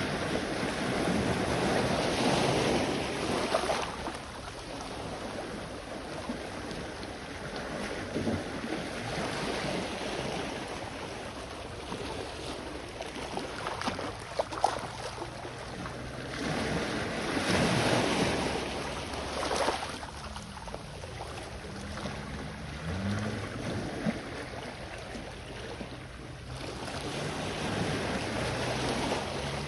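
Sea waves washing ashore, swelling into louder surges three times, with wind on the microphone and a faint low hum underneath.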